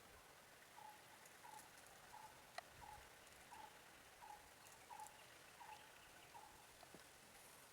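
Faint animal call: a short note repeated evenly, about three every two seconds, over near-silent background, with a single faint click a little before the middle.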